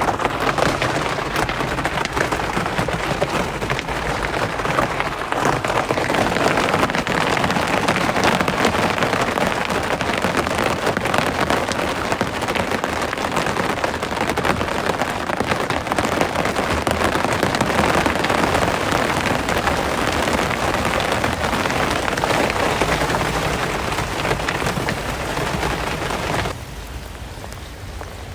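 Heavy rain falling, a dense patter of drops striking a surface. About 26 seconds in it cuts abruptly to a quieter, softer rain.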